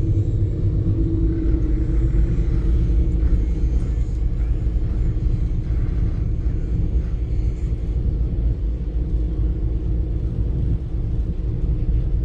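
Ferry's engines running with a steady low rumble and a drone of several steady tones, heard on board the ship.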